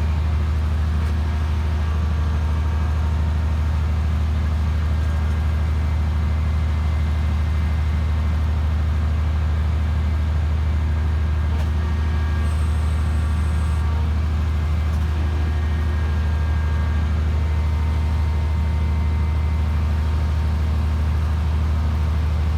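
The engine and hydraulic power unit of a static pile driving machine running steadily with a deep, even hum. There are no hammer blows.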